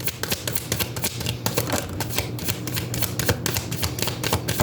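A deck of tarot cards being shuffled by hand, a rapid run of crisp card flicks and slaps.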